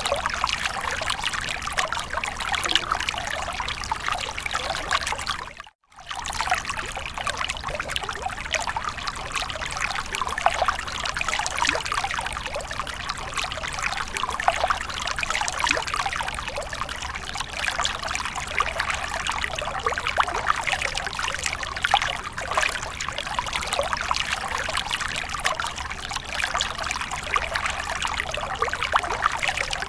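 Water splashing and trickling steadily: a dense patter of small splashes. The sound cuts out for a moment about six seconds in, then resumes unchanged.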